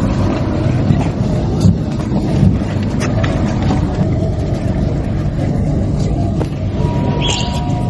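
A steady low rumble, with a few faint clicks over it and a faint high tone coming in near the end.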